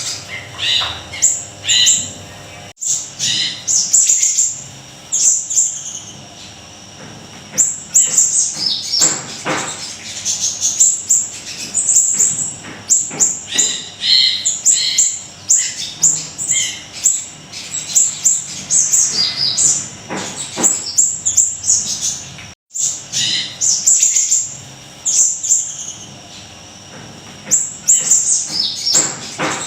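Small songbird, the siri-siri kecil, singing loudly in rapid bursts of high, sharp chirps and short down-slurred whistles, with brief lulls between phrases.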